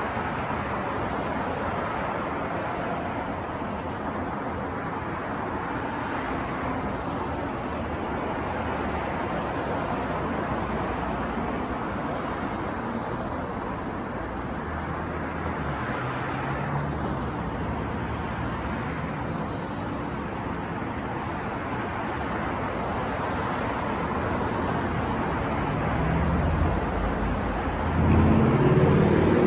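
New York street traffic noise with wind: a steady wash of passing cars, with a heavier vehicle growing louder near the end.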